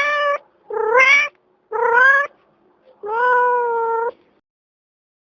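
Domestic cat meowing repeatedly: one meow already under way, then three more about a second apart, each rising in pitch at its start, the last one longest.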